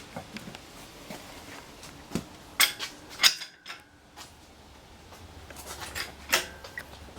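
Metal tools and engine parts clinking and clanking as they are handled, a handful of sharp knocks with the loudest clank about three seconds in.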